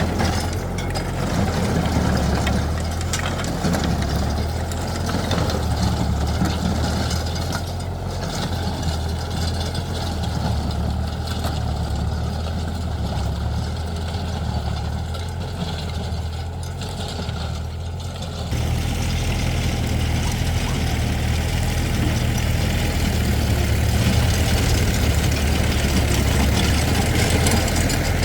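Excavator engine running steadily with a low, even hum. About 18 seconds in it gets louder and fuller and holds there.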